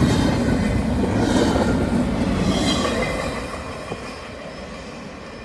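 CSX intermodal freight train's cars rolling past on the rails, with wheel squeal and rail clatter, fading away about three seconds in as the train goes by.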